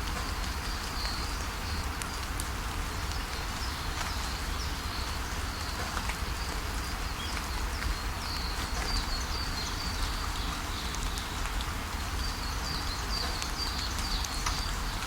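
Steady rain falling, with a bird giving short runs of high chirps that come and go.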